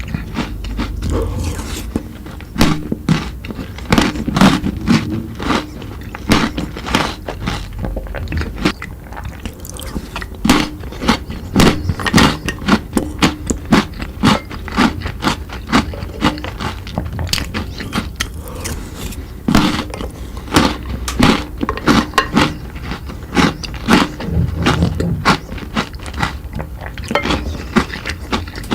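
Close-miked eating of chocolate sweets: irregular sharp crunches, bites and wet chewing clicks, many per second.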